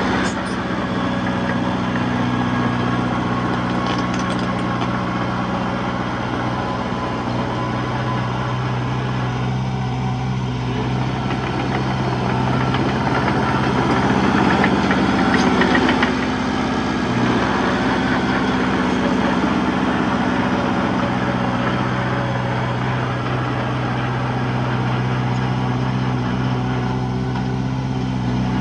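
Diesel engine of a heavy earthmoving machine running at steady speed, pulling harder and growing louder briefly about halfway through before settling back, with a few faint metallic clanks.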